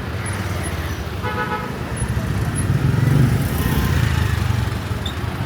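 Street traffic with a vehicle engine passing close, loudest about three seconds in, and a short horn toot about a second in.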